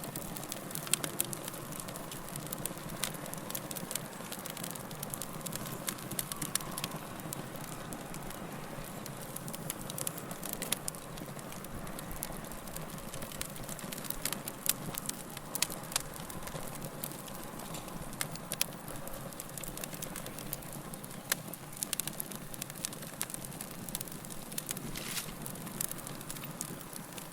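Wood fire in a fireplace, with a steady low hiss of burning and a constant scatter of sharp crackles and pops, some louder than the rest.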